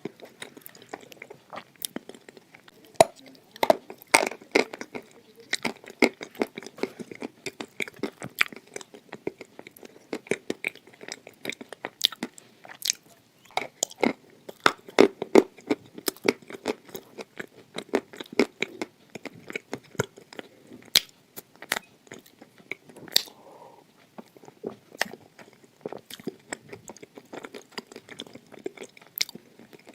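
Close-up crunching and chewing of hard red khawa clay: a dense, irregular run of sharp, crisp crunches.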